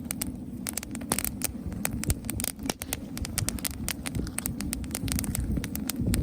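Campfire of dry leaves on dead branches crackling loudly, with dense irregular sharp pops over a steady low rumble.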